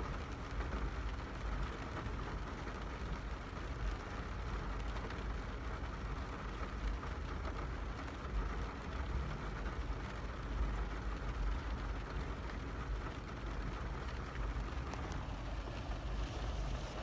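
A car running, a steady low rumble with a broad hiss above it.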